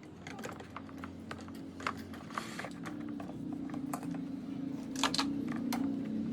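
A series of light clicks and taps, like small hard parts being handled. A steady low hum comes in about halfway through and keeps going.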